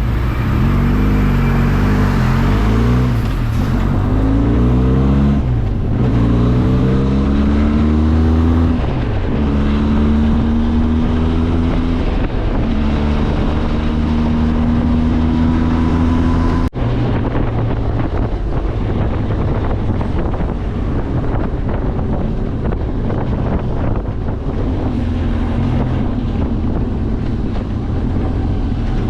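Benelli TRK 502X's parallel-twin engine running under way, its pitch climbing again and again as it pulls up through the gears. After a sudden break about halfway through, it runs more steadily at a lower pitch.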